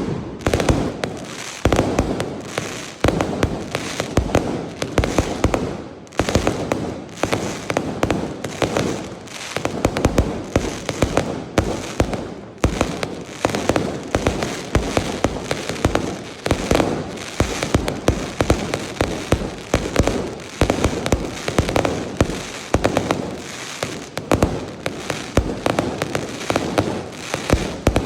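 A continuous barrage of fireworks: rapid loud bangs and crackling firecracker reports, many per second, with no real pause.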